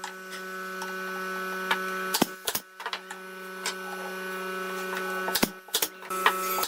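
A small electric motor, such as a handheld power tool's, running with a steady hum in stretches of two to three seconds. It is broken twice by a pair of sharp clicks or knocks, then starts again.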